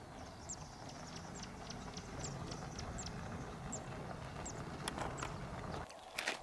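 A bird calling: short, high chirps that each fall in pitch, repeated about twice a second. A few sharp knocks come near the end.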